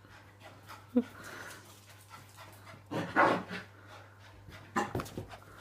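Puppy panting in a few short, breathy bursts, with a brief whine about a second in.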